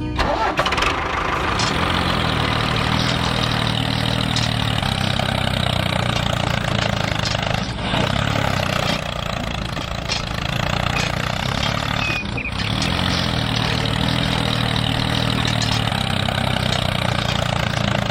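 Engine of a DIY miniature tractor running steadily, a continuous low mechanical hum with a rattle over it.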